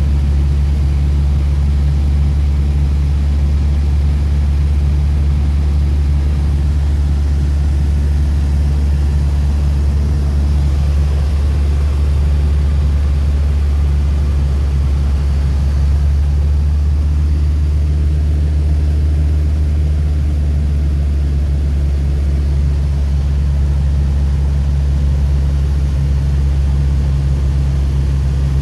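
Mooney single-engine piston aircraft's engine and propeller droning steadily, a constant low hum with no change in pitch.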